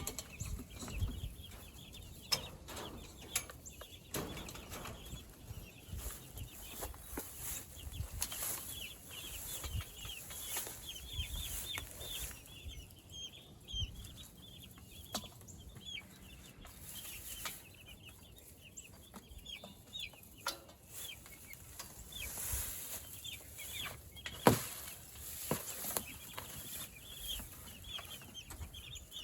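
A flock of young meat chickens (broilers) cheeping steadily in high, short peeps, with scattered scratching and rustling, and one sharp knock about two-thirds of the way through.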